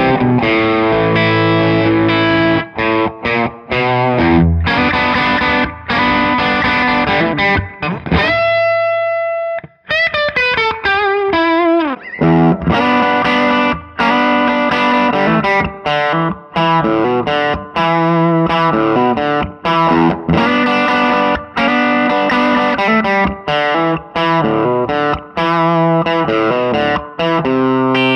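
Electric guitar played through a tube amp set at the edge of breakup, lightly overdriven: a choppy riff of chords and single notes. About eight seconds in, one note is held and left to ring, then the pitch slides down, and the riff picks up again.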